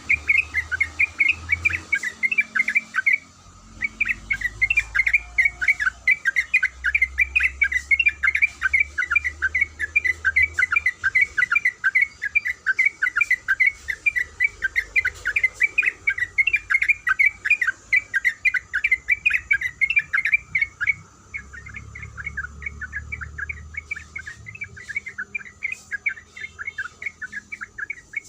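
Sooty-headed bulbul (trucuk) calling in a long unbroken run of rapid, short chattering "kuik kuik" notes, several a second, pausing briefly about 3 seconds in and again about 21 seconds in.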